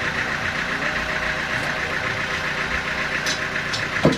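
An engine running steadily, with one sharp, loud knock just before the end.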